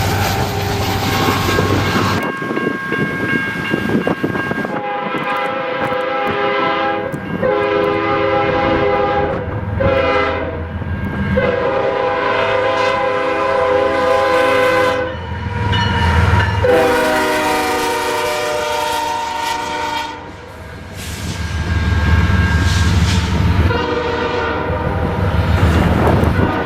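Diesel locomotive air horn sounding a series of blasts: two long, one short, then a long one held, the grade-crossing signal, followed by further long blasts. Under it runs the rumble of the passing train.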